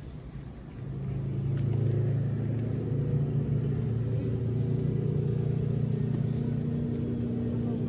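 Motorcycle engine running, growing louder about a second in and then holding a steady low note.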